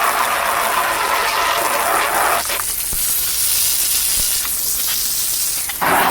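Garden hose nozzle on the jet setting spraying a hard stream of water, a steady hissing gush that changes in tone about two and a half seconds in and again near the end as the spray moves.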